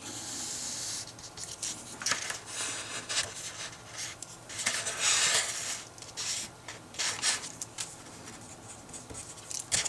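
Writing by hand: a pen scratching and rubbing across a writing surface in short irregular strokes, with one longer, louder stroke about five seconds in.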